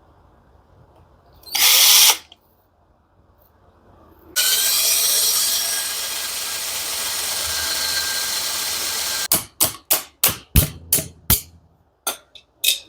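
Electric drill drilling into a stubborn lock nut on a tumble dryer motor. A brief blip of the trigger about 2 s in, a continuous run for about five seconds that drops a little in level after the first second, then a string of short trigger bursts near the end.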